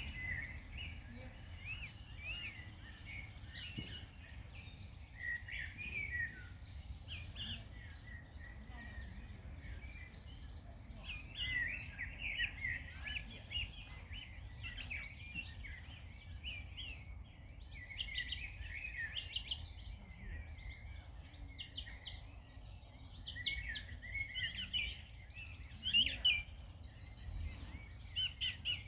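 Several songbirds chirping and singing in quick, overlapping phrases, over a low steady rumble.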